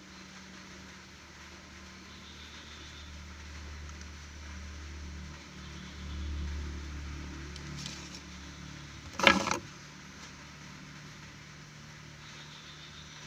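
Low rumble of a passing vehicle that swells and fades through the middle, then a short, sharp noise about nine seconds in, the loudest sound.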